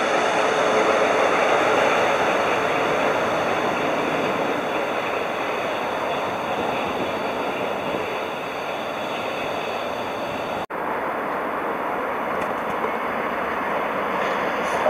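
A train running by, heard as a steady rushing noise, broken by a brief dropout about ten seconds in.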